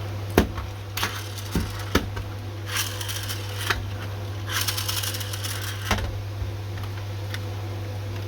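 A 1:24 diecast model car being handled: sharp plastic and metal clicks and knocks, and two brief scraping or rolling sounds of about a second each, over a steady low hum.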